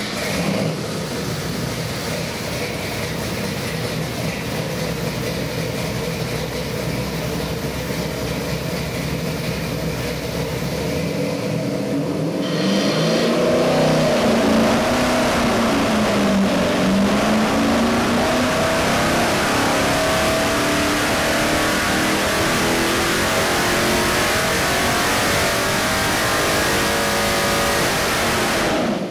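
Carbureted 572 cubic-inch big-block Chevy V8 running hard on an engine dynamometer. About 13 seconds in it gets louder, its pitch dips, and then it climbs steadily as the revs rise under load, as in a dyno pull, before cutting off sharply at the end.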